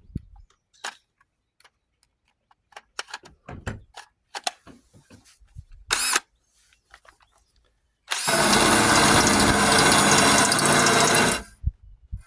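A handheld power tool runs for about three seconds, starting about eight seconds in. Before it come scattered clicks and knocks, with one brief louder burst.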